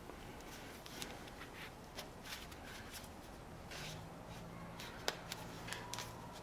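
Faint, scattered clicks and scrapes of a machete blade and its handle being handled during a test fit of the tang, with one sharper click about five seconds in. A faint low hum comes in a little before the click.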